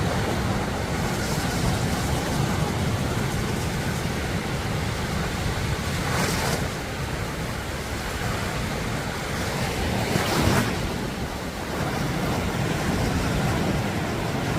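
Sea surf washing in steadily, with two louder waves breaking about six and ten seconds in. Wind rumbles on the microphone.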